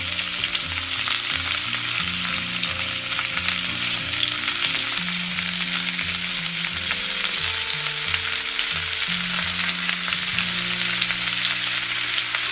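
Battered pakoras deep-frying in hot oil: a steady, dense sizzle. This is the second fry, which makes them extra crispy on the outside.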